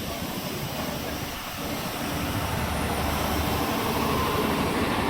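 Northern Ireland Railways Class 3000 diesel multiple unit standing with its engine running: a steady drone that grows louder about two seconds in.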